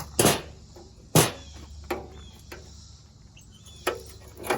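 Two sharp metal knocks about a second apart, then a few lighter clicks and clunks, as the tractor's sheet-metal headlight section is handled and taken out.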